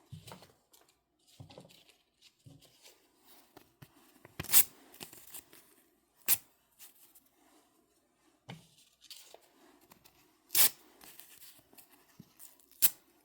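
Paper résumé sheets torn by hand: four sharp, loud rips, with quieter rustling and handling of the paper between them.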